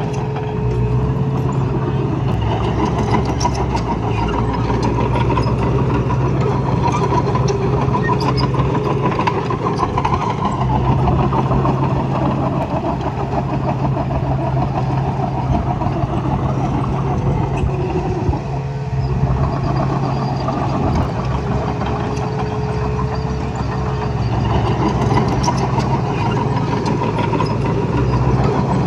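Engine of heavy earth-moving machinery, a bulldozer or dump truck, running steadily, with a brief drop in level about two-thirds of the way through.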